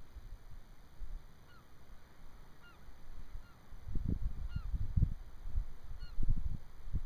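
Distant birds giving a string of short, honk-like calls, about one a second. Gusts of wind rumble on the microphone, loudest about four and six seconds in.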